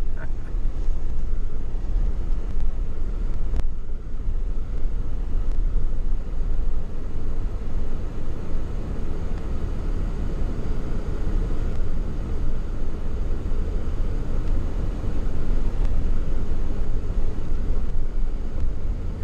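Steady engine and road noise of a moving vehicle, heard from inside the cab, with a single sharp click about three and a half seconds in.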